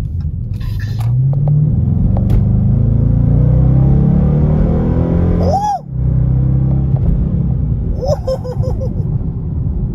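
Dodge Charger R/T's 5.7-litre HEMI V8 accelerating hard, heard from inside the cabin: the engine note climbs in pitch for several seconds, drops out briefly about six seconds in, then pulls on steadily.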